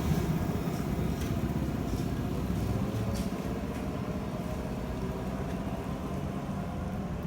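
Steady low rumble of a vehicle running, with a few faint ticks, gradually easing off.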